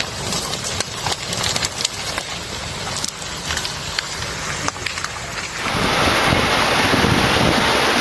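Heavy tractor engine running under wind noise on the microphone, with scattered sharp cracks. About six seconds in the sound switches abruptly to a louder, steady rushing noise.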